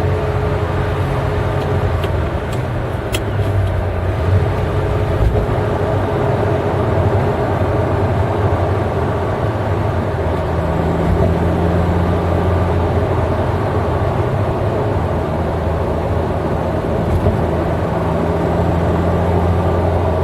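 Eight-cylinder car engine running steadily under way, a continuous low drone at an even pitch; a further low tone joins about halfway through.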